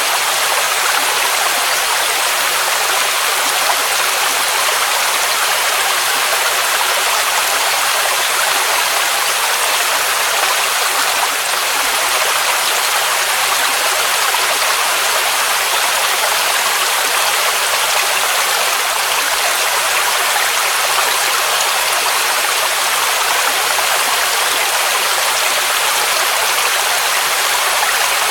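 Mountain waterfall rushing steadily: a dense, even hiss of falling water, with little deep rumble beneath it.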